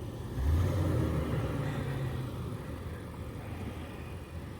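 Nissan Patrol Y62's V8 engine working at low speed while towing a caravan: it picks up about half a second in, holds for a couple of seconds, then eases back to a low, steady run.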